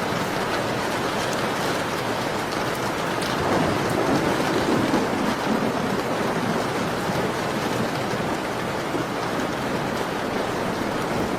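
Steady rain falling, an even hiss with a low rush that swells louder from about three and a half to six seconds in, and a few faint crackles from a wood fire.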